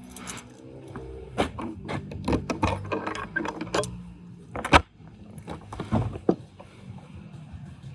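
Metal tools and parts clinking and knocking in a run of irregular sharp clicks, with one loud strike a little before five seconds in, over a low steady hum.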